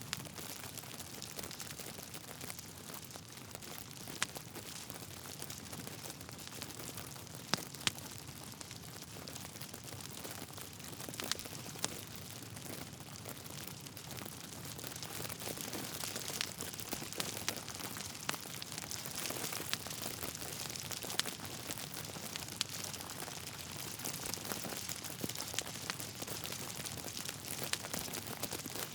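Wood fire crackling steadily, with scattered sharp pops from the burning logs and a soft hiss underneath.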